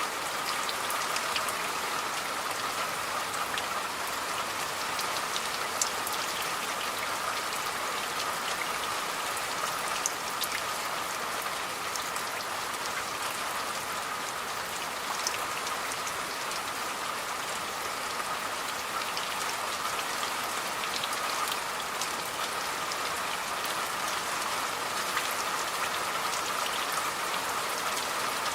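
Steady rain falling, a constant hiss with scattered sharper drops standing out.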